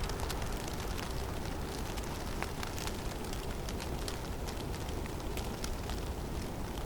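Blizzard in a forest: a steady rush of wind with a low rumble underneath, and many light, scattered ticks of snow striking.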